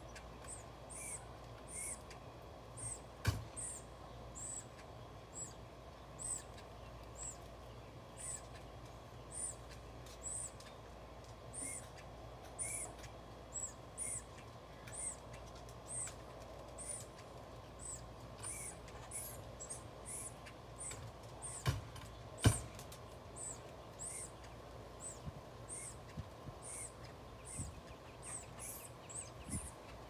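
A bird's high, thin chirps repeating steadily, about once or twice a second, with some lower chirps now and then. A few sharp knocks cut in, the loudest about two-thirds of the way through.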